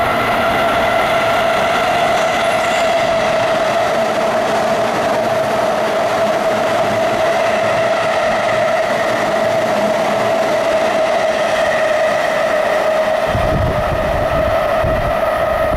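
JR Keiyo Line electric train running through the station: loud, steady rail noise with a constant whine. A deeper rumble joins near the end.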